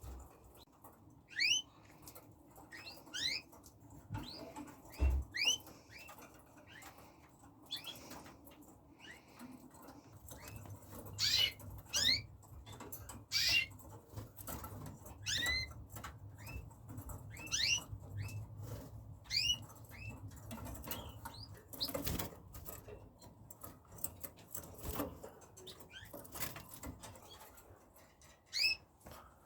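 Red factor canaries giving short, rising chirp calls, scattered every second or two, with occasional fluttering and rustling.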